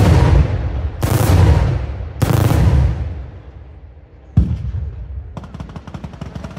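Daytime fireworks bursting overhead: three heavy reports about a second apart, each trailing off in a long echo. About four seconds in comes a sharp bang, followed by a rapid crackle of many small reports.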